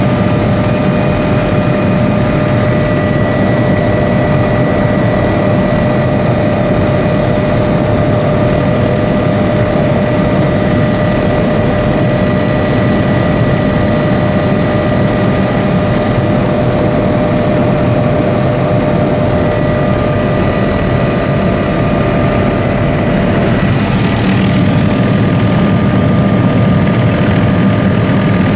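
Helicopter engine and rotor noise: a loud, steady drone with several constant high-pitched whining tones over it. About three-quarters of the way through, a hissing rush grows stronger and the noise gets slightly louder.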